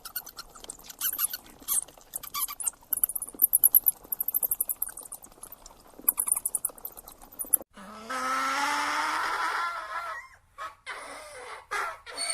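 Animal calls. For the first seven or so seconds, many rapid, very high squeaks and chirps. Then, after a cut, one call of about two seconds rising in pitch, followed by several short calls.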